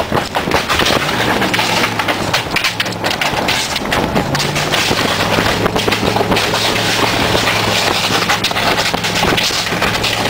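A steel water heater chained behind a pickup, clattering, banging and scraping as it is dragged along a rough road, with the truck's engine running steadily underneath.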